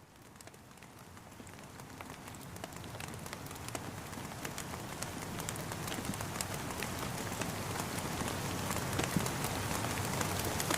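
Steady rain, with many separate drops tapping through the hiss, fading in gradually from faint and growing louder over several seconds.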